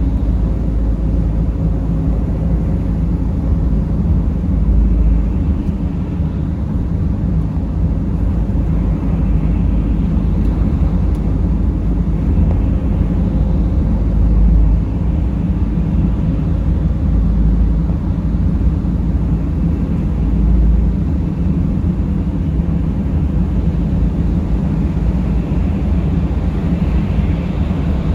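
Mercedes Sprinter van driving: a steady low rumble of engine and road noise that swells slightly a few times.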